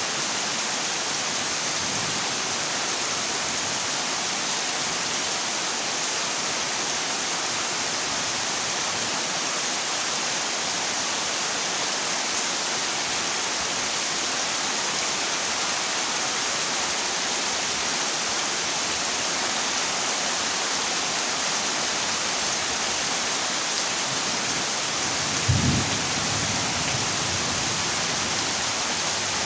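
Heavy rain falling steadily on a corrugated zinc roof, a dense even hiss, with a short low rumble of thunder a few seconds before the end.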